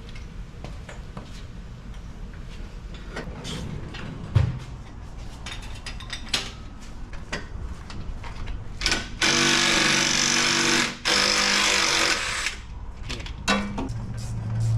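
Scattered metal clinks and a sharp knock from work on the van, then a power tool running loudly in two bursts of two seconds or so, a little over halfway through.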